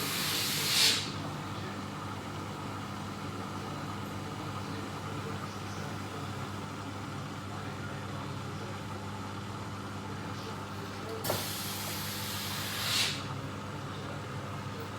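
Neff front-loading washing machine humming steadily as it tries to shift a heavy, unbalanced load it cannot tumble or spin. Two short swelling rushes of hiss come through, one right at the start and one about eleven seconds in, the second beginning with a click.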